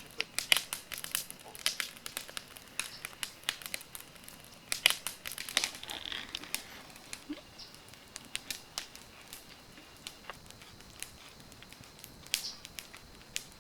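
Campfire of dry oak wood crackling, with irregular sharp pops, busiest in the first half.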